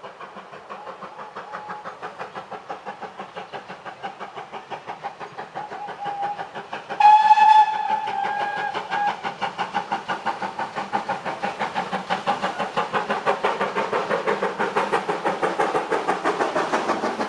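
Steam locomotive working a train, its exhaust beats coming in a steady quick rhythm and growing louder as it draws nearer. Its whistle sounds about seven seconds in, held for around two seconds, after a couple of faint short notes.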